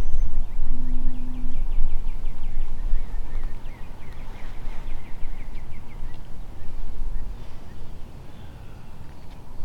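Low rumble, like wind or handling on the microphone, with a bird trilling rapidly, about ten short notes a second, over the first few seconds before it fades.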